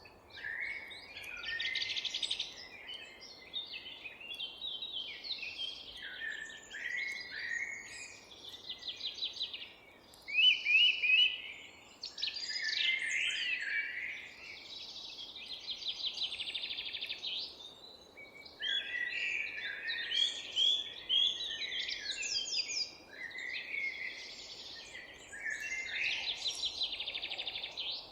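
Several songbirds singing at once, their phrases overlapping with short whistles and rapid trills and hardly a pause, over a faint steady background hum of the open air.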